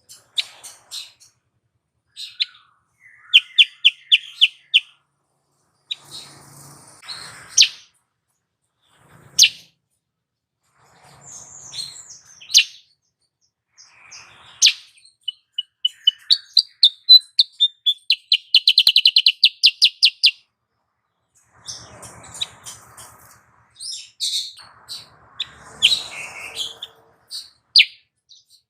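Female kutilang sutra bulbul calling: sharp single chirps mixed with fast rattling trills, the longest trill running from about 16 to 20 seconds in. The call is the female's, used as a lure to bring male birds into song.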